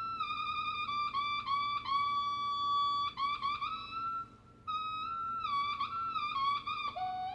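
Electric guitar run backwards through a wah pedal, input and output swapped, making seagull-like squealing cries: a high tone that swoops and bends up and down again and again, with a short break about four seconds in.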